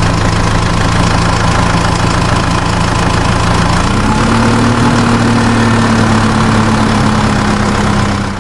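Engine running steadily at idle; its pitch rises a little about four seconds in, then holds.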